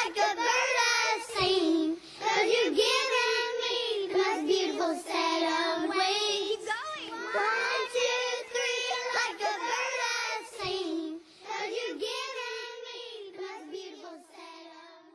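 A child singing a melody unaccompanied, the voice gradually fading out near the end.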